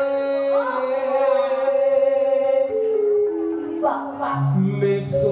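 A slow Javanese song: a voice sings long, drawn-out notes that slide in pitch over sustained, steady instrumental accompaniment.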